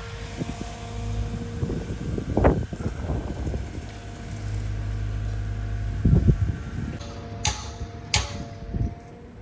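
A large engine or motor running steadily, with a low hum and a couple of steady whining tones, broken by a few knocks and two sharp clanks near the end.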